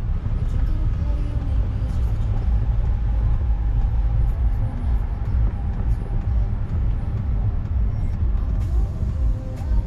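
Steady low rumble of road and city traffic noise heard from inside a moving car's cabin.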